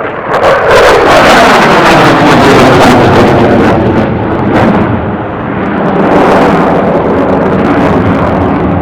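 Aircraft making a loud, low fly-past, its sound sweeping down in pitch as it passes, then a steady loud rush that swells again about six seconds in.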